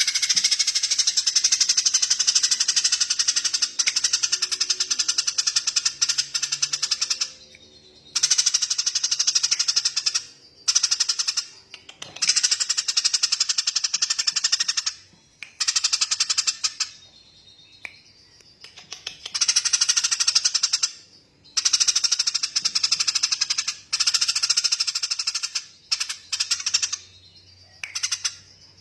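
Small songbird giving long, very rapid, high-pitched rattling trills in bursts of one to several seconds, with short pauses between them.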